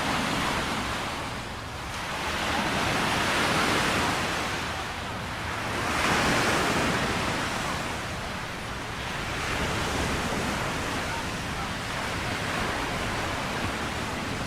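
Ocean surf breaking and washing up on a beach as a steady rushing noise that swells and ebbs, with surges a few seconds apart.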